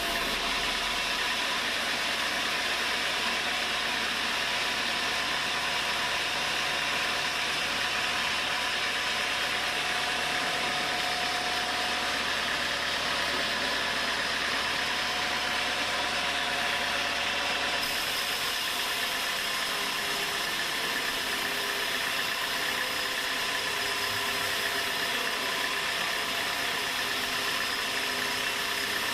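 Homemade sawmill running with a steady mechanical noise from its motor and saw. A brighter hiss joins about two-thirds of the way through.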